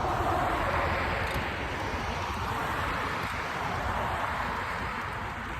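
A car passing close by: its tyre and road noise swells and rises in pitch about a second in, then slowly fades away, over a steady low rumble of wind on the microphone while riding.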